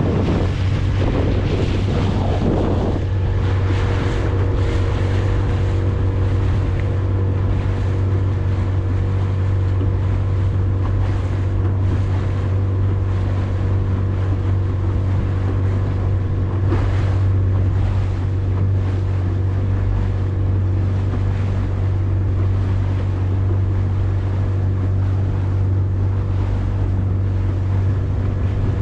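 A fishing boat's motor running steadily under way, with wind buffeting the microphone and the rush of water.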